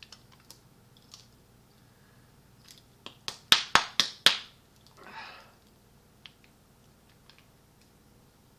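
Hot sauce bottle top being opened: a quick run of about five sharp clicks a few seconds in, with a few fainter ticks around them.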